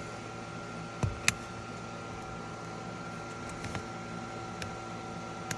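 Plastic trim clips being pressed into a truck door trim piece: a dull knock about a second in, a sharp click just after, a couple of faint ticks, and another click near the end, over a steady background hum.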